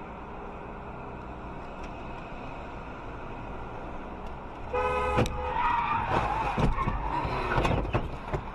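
Steady road and engine noise from a moving car, then a car horn sounds briefly almost five seconds in. Right after it comes louder, jumbled noise with several sharp knocks and a wavering screech.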